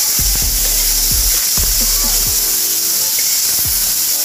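Raw beef pieces sizzling steadily in hot sesame oil in a frying pan, just added and being seared, while a wooden spatula stirs and scrapes them around the pan.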